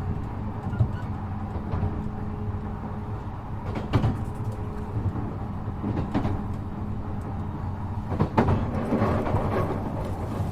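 Onboard sound of an E233 series 7000 electric train: a steady low hum with a few sharp knocks about four, six and eight seconds in.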